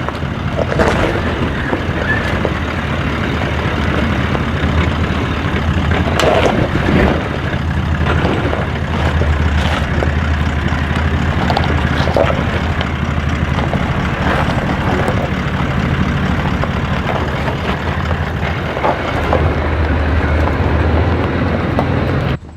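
Four-wheel drive vehicle driving on a rough dirt track: a steady low engine drone with scattered knocks and rattles from the bumps.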